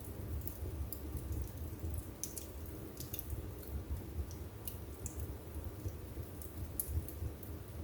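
Wood fire burning in a fireplace, with irregular sharp crackles and pops from the burning wood over a steady low rumble of the flames.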